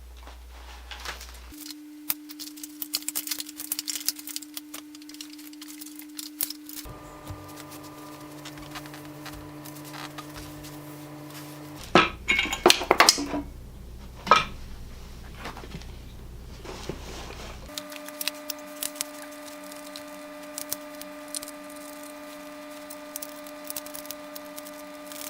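Metal exercise-bike parts and screws clinking and clanking as they are handled during assembly, with a cluster of louder clanks about halfway through, over a steady background hum.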